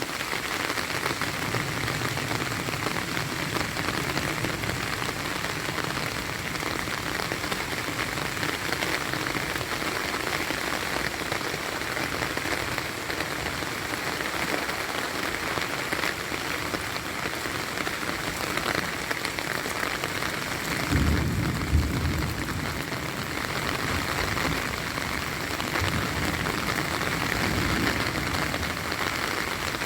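Heavy rain falling steadily, with a low rumble about two-thirds of the way through and again near the end.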